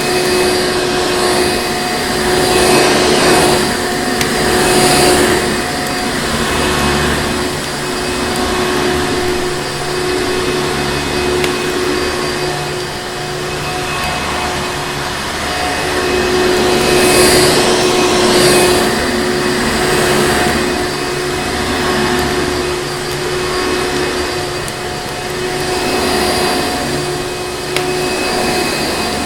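Vacuum cleaner motor running steadily: a dense rushing noise with a constant motor hum, its loudness swelling and easing every few seconds.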